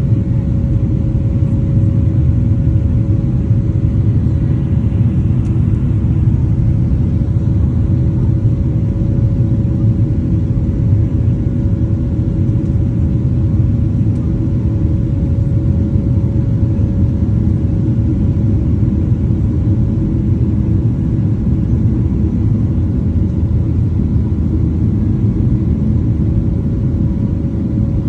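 Steady cabin drone inside a Boeing 737-700: a low rumble from its CFM56-7B jet engines and the airflow, with a steady hum running through it.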